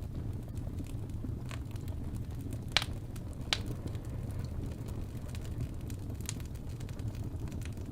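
Fire burning in a fireplace: a steady low rumble of flames with scattered faint crackles, and two sharper pops a little under three seconds in and half a second later.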